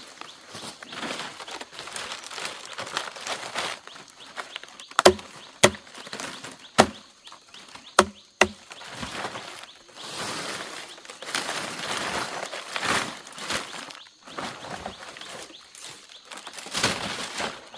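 Hand-work noises: about five sharp knocks in quick succession around the middle, among stretches of scraping and rustling.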